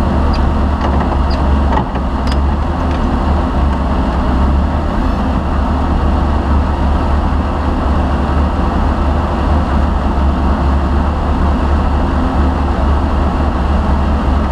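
Off-road rally car's engine running steadily with a deep low rumble, with a few light clicks in the first few seconds.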